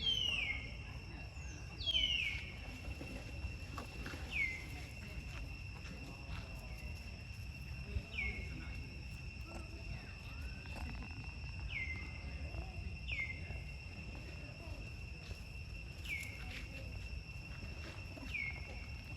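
A steady, high-pitched outdoor insect drone, with a short falling chirp that repeats every couple of seconds.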